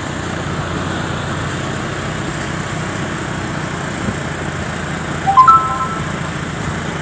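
Steady vehicle engine and road noise heard while riding. About five seconds in, a short three-note tone steps upward and is the loudest sound.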